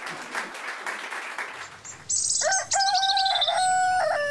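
A loud bird-like call. About two seconds in come a few high chirps sliding down in pitch, then a long call in three held notes of nearly the same pitch, the last one dropping off at the end.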